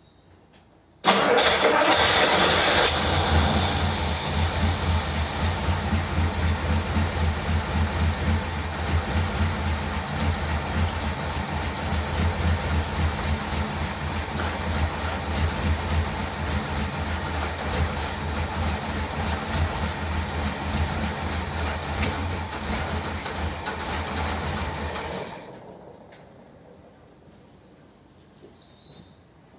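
1957 Ford Thunderbird's Y-block V8, running on a two-barrel carburettor, starts about a second in, runs fast for a couple of seconds, then settles to a steady idle with an even pulse before stopping near the end. It is being run to test the idle mixture screws, just set at about three turns out.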